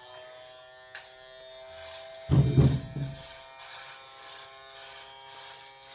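Toy Miele vacuum cleaner's small electric motor running with a steady whirring hum. A brief low bump about two seconds in.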